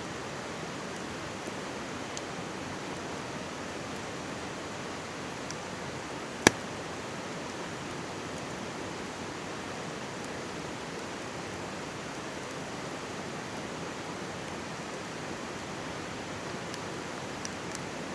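Steady rushing of a mountain stream close by, with a wood campfire giving a few faint crackles and one loud sharp pop about six seconds in.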